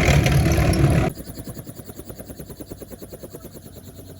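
Helicopter: a loud rushing noise that cuts off suddenly about a second in, followed by a quieter, rapid, steady rotor chop.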